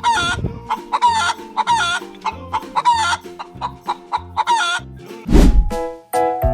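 A chicken clucking in short, repeated calls about once a second over light background music, ending with a loud whoosh near the end as music takes over.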